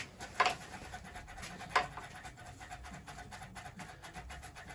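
Restored hand-worked oil pump of a Lister Q Type engine being pumped to prime oil through its feed pipes: two sharp clicks, about a second and a half apart, among faint scraping and ticking.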